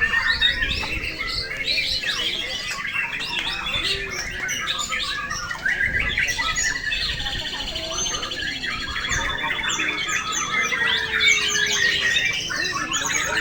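Many white-rumped shamas (murai batu) singing at once, a dense overlapping chorus of whistles, trills and rapid repeated notes.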